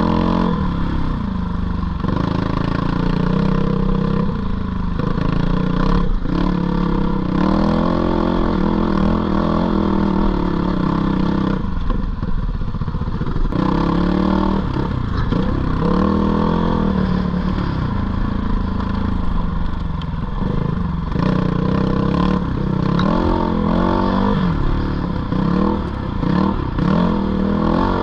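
Single-cylinder dirt bike engine on the trail, revving up and falling back again and again as the throttle is worked, with some clatter mixed in.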